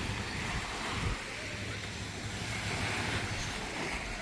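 Sea surf washing on the beach, a steady rush, with wind buffeting the microphone.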